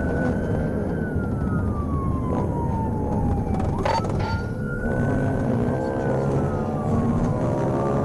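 Police cruiser siren in a slow wail, sliding down in pitch, jumping back up sharply about four seconds in and sliding down again, over steady engine and road noise.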